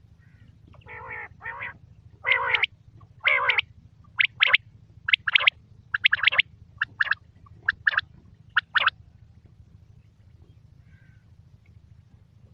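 Quail calling: a run of about sixteen short, harsh notes, mostly in pairs, the first few lower and longer, the later ones shorter and higher, stopping about nine seconds in. A steady low hum lies underneath.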